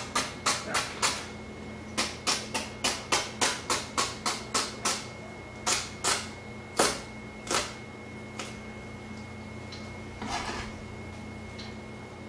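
Knife chopping on a cutting board in quick, even strokes, about four a second, in runs that slow and stop about eight seconds in, over a steady kitchen hum.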